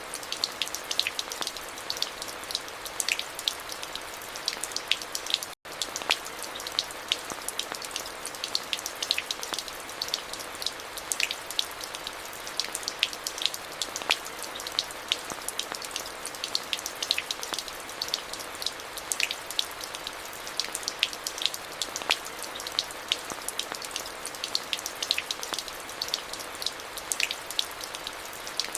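Steady rain falling, with many individual close drops ticking sharply over an even hiss. The sound cuts out for a split second about five and a half seconds in.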